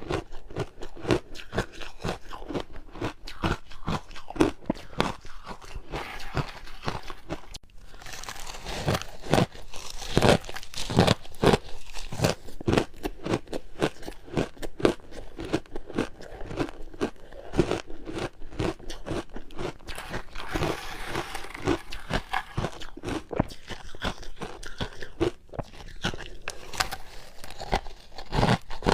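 Ice being bitten and chewed close to the microphone: a dense, irregular run of sharp crunches, heaviest about a third of the way in and again just past the middle.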